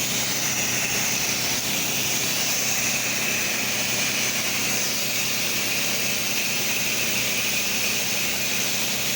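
Pressure washer running steadily, its engine humming under a constant hiss of water spraying from the wand as a house is rinsed down.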